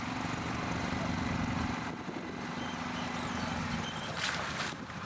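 A vehicle engine running steadily, with a short burst of hissing noise about four seconds in.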